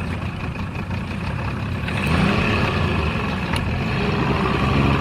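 Truck engine running steadily, revving up briefly about two seconds in, with one sharp click a little later.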